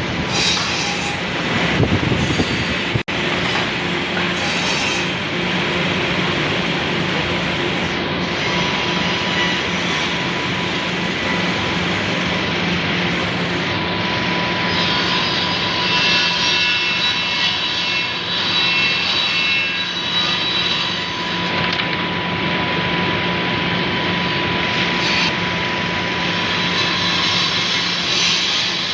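RH-826ART automatic double-end cutting and milling machine running, its saws and milling cutters working wood: a steady, loud machine noise with a low hum. A thin whine joins it about halfway through.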